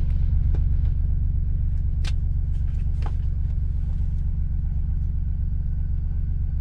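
Farm machine's diesel engine running steadily, a constant low drone, with a few faint clicks about half a second, two seconds and three seconds in.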